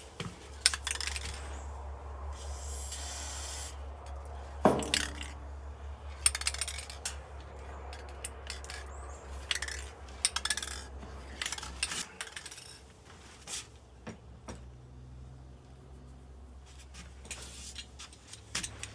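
Small metal dryer parts (drum support wheels and their clips) clinking and clicking as they are handled. A short hiss comes about three seconds in, and a low hum underneath stops about twelve seconds in.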